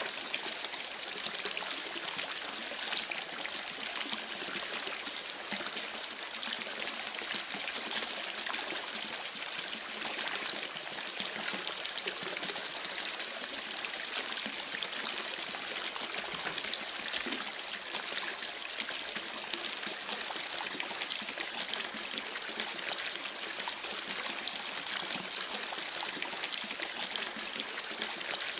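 A babbling creek, water trickling and running steadily.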